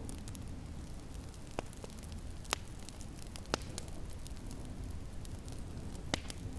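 Wood fire crackling in a fireplace, with a few sharp pops about one, two and three seconds apart, over a steady low rumble and hiss.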